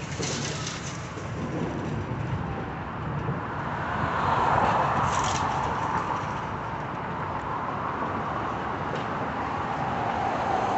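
Vehicle engine noise, a low rumble that swells about four seconds in and then eases off, with a couple of brief, sharp noisier moments.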